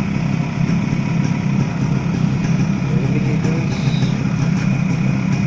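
Suzuki AX 100 single-cylinder two-stroke engine idling steadily, its exhaust note even and loud.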